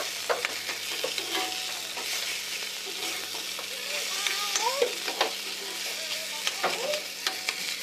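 A flat spatula stirring and tossing food frying in a blackened iron karahi, with repeated scrapes and knocks against the pan over a steady sizzle of hot oil.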